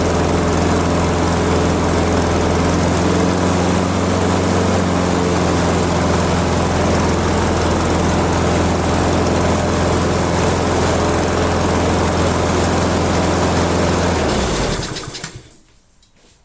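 Ginge Classic lawn mower's Loncin engine running steadily at a slow speed while its carburettor adjustment screw is turned all the way in. The adjustment improves the running, but it still runs slower than wanted. The engine is shut off and runs down to a stop near the end.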